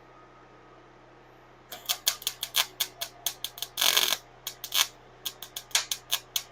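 Welding arc on stainless steel exhaust tubing crackling in a rapid string of short bursts, about five a second, with one longer half-second burst about four seconds in. It starts about two seconds in, after a faint steady hum.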